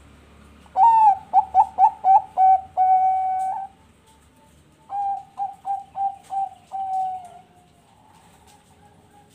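Zebra dove (Thai-bred 'perkutut bangkok') cooing: two song phrases, each a quick run of short, clipped notes ending in one long held note. The second phrase comes about four seconds after the first and is a little quieter.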